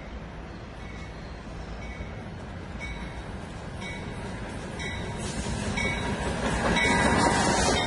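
Norfolk Southern double-stack container freight train, led by diesel-electric locomotives, approaching: engine rumble and wheel noise growing steadily louder as it closes in.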